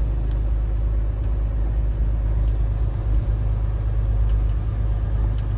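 Semi-truck diesel engine running, heard from inside the cab as a steady low rumble, with a few faint clicks.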